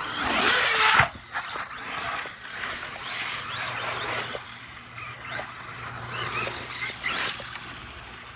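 Electric motor of an Arrma Mojave EXB RC truck whining as it is throttled up and down on dirt. A loud burst of throttle comes about the first second, followed by many short rising and falling revs.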